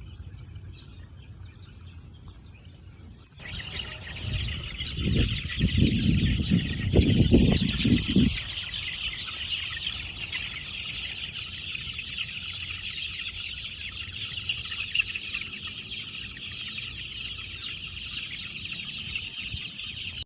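Chickens clucking and chirping over a dense, steady high-pitched chorus that starts suddenly about three seconds in. Loud low rumbling from about five to eight seconds.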